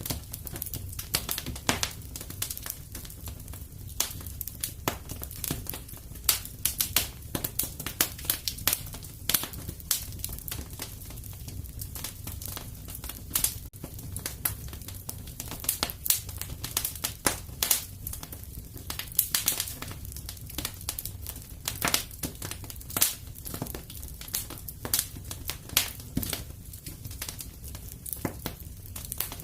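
Wood fire in a fireplace crackling, with irregular sharp pops and snaps, some louder than the rest, over a low steady rumble.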